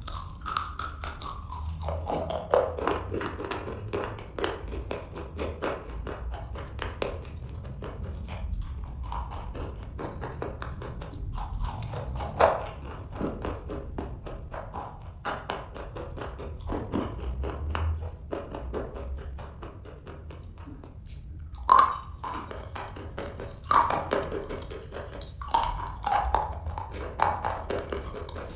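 Close-up biting and chewing of dry black chalk chips: a continuous run of sharp, crisp crunches and clicks, a few much louder than the rest.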